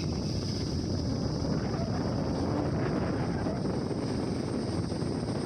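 A vehicle travelling on a road: steady engine and road rumble with wind buffeting the microphone. A steady high-pitched hum runs underneath.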